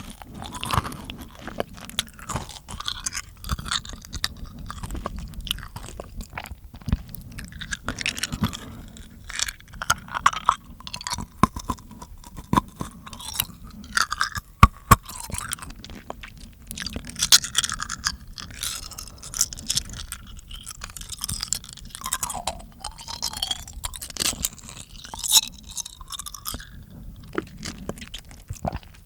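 Close-miked ASMR mouth sounds: a dense, irregular stream of wet clicks and smacks from the tongue and lips, with a few brief gliding squeaks.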